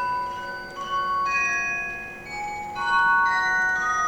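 A bell-like chiming melody: overlapping ringing notes that change pitch every half second or so, each held for a second or more.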